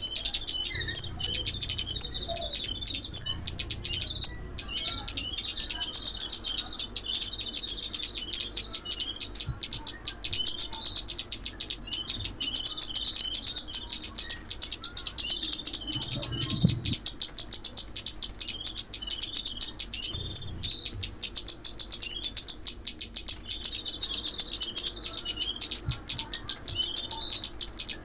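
Rapid high-pitched chirping and ticking calls of the chim ốc mít, the small Vietnamese bird also taken for the scarlet-backed flowerpecker. The calls come in near-continuous runs with brief pauses, a recording played as a lure to draw the bird into a trap.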